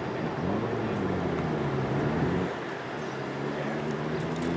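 Diesel train engine running at a station with a steady low drone, its pitch shifting about a second in and again near the end, over general rumble.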